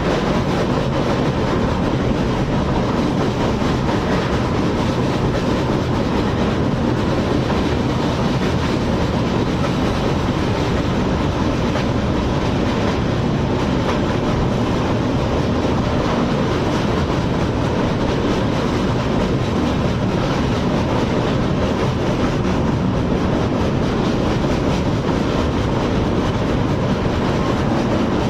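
Express passenger train running at high speed, its wheels on the rails making a steady, unbroken rumble.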